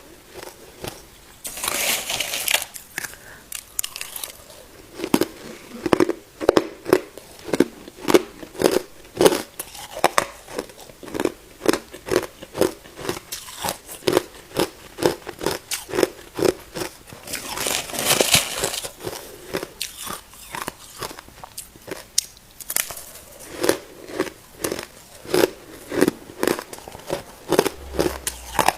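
Ice being bitten and chewed, a steady run of hard crunches at about two a second. Denser, louder crunching comes about two seconds in and again around eighteen seconds, as fresh ice is bitten off.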